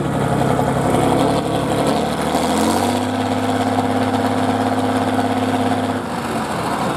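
Truck engine running, revving up about two seconds in, holding at the higher pitch, then easing off about six seconds in.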